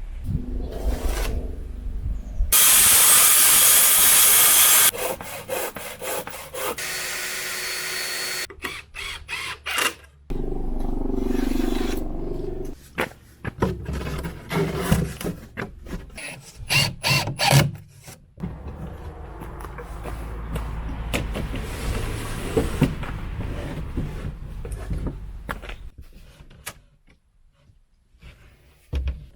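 A rapid run of short DIY power-tool and workshop sounds, drilling, cutting and knocking, that cut abruptly from one to the next, with a loud hissing stretch near the start.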